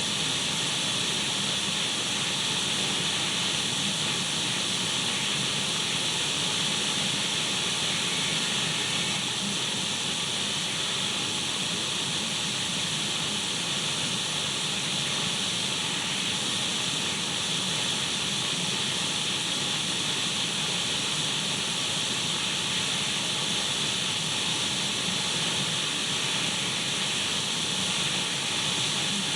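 Radio static: steady untuned-radio hiss with no change, used as white noise to lull a baby to sleep.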